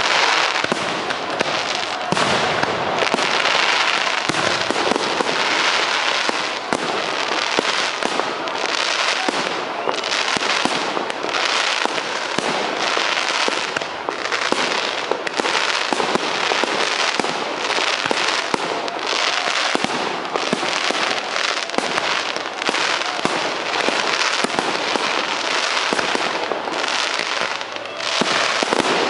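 Aerial firework shells bursting one after another, roughly every second or so, over a continuous dense crackle.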